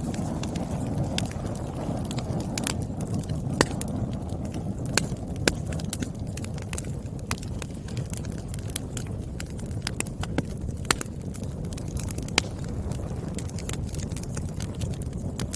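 Firewood burning and crackling: irregular sharp pops and snaps over a steady low rumble of the flames.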